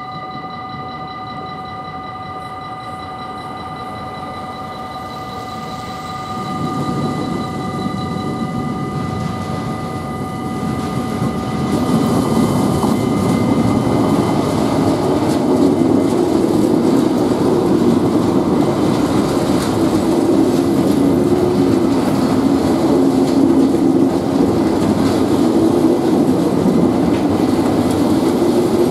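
Level-crossing warning bell ringing steadily as a freight train approaches. A DB Cargo diesel locomotive's engine grows louder from about six seconds in and passes about twelve seconds in. Loaded tank wagons then roll by with a steady rumble of wheels on rail that drowns out the bell.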